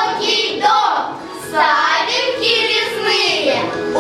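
Children singing a song with music behind them.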